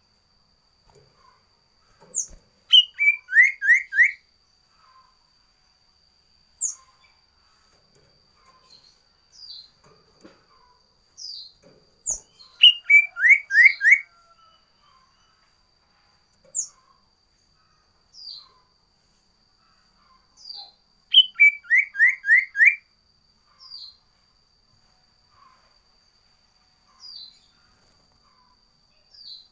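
Sirtu songbird singing: three loud phrases about ten seconds apart, each a sharp high note followed by a quick run of four down-slurred whistled notes. Short single high chirps fall in between, over a faint steady high-pitched tone.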